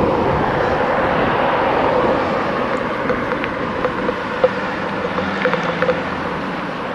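Steady rushing road noise heard from a moving bicycle on a town road: wind and tyre noise with motor traffic, and a low engine hum from about four seconds in.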